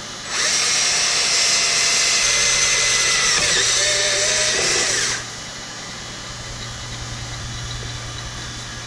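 Electric power drill running for about five seconds, its motor whine sagging briefly under load part way through before it stops. A steady low hum continues underneath.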